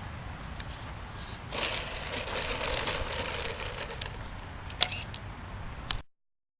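Wind buffeting the microphone, with a louder rushing hiss for about three seconds. Then two sharp clicks of the camera being handled, and the recording cuts off.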